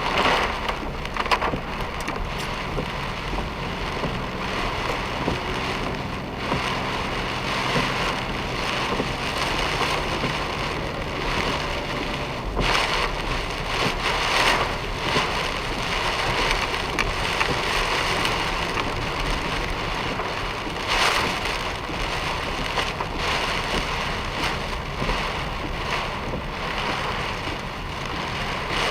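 Heavy typhoon rain pelting a moving car: a dense, steady hiss with many sharp hits, swelling now and then, over the car's running noise.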